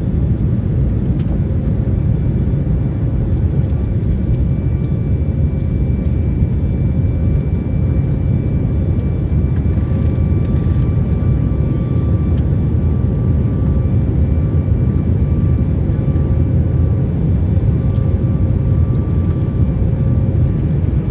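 Cabin noise inside a Boeing 737 MAX 8 at takeoff power: a loud, steady low rumble of its CFM LEAP-1B engines and rushing air. Faint steady whining tones are held above it.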